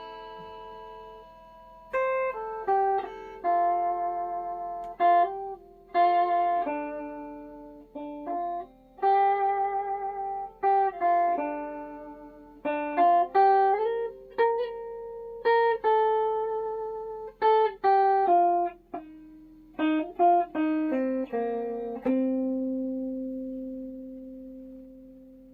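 Flight Centurion solid-body electric tenor ukulele played: a run of plucked notes and chords, each struck sharply and left to ring. It ends on a chord held from about three seconds before the end, fading away.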